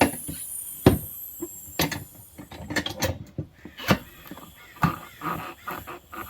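Bead breaker of a manual tire changer being levered against the tire: metal clanks and squeaks about once a second as the bead is pushed off the rim.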